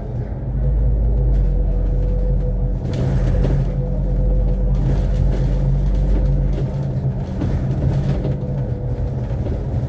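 Inside a diesel double-decker bus: the engine running with a steady low drone and a thin whine. The deepest rumble drops away about six and a half seconds in.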